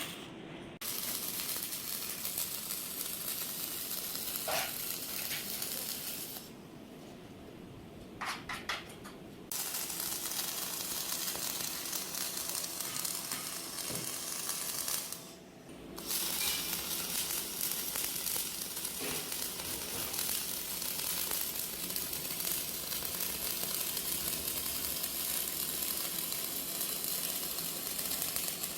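Electric arc welding on steel plate: a continuous crackling sizzle that stops twice, for about three seconds near a quarter of the way in and briefly about halfway, with a few light metal clinks during the first pause.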